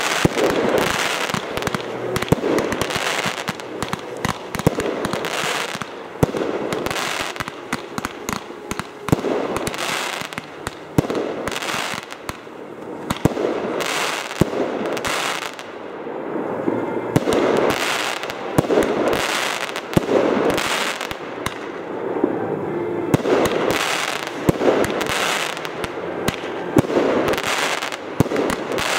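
Fireworks display: a continuous barrage of sharp shell bursts and crackling, with several bangs every second and no pause.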